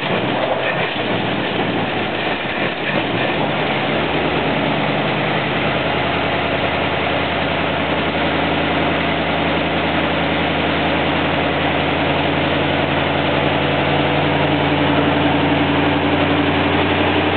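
A Ford flathead V8 with dual carburettors catches right at the start and runs unevenly for about three seconds. It then settles into a steady, even idle by about five seconds in and holds it.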